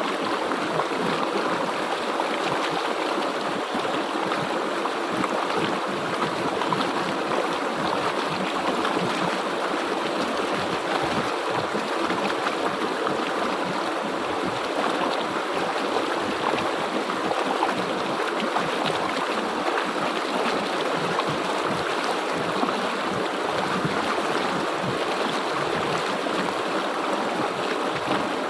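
Stream water flowing steadily over rocks, an even rushing and babbling.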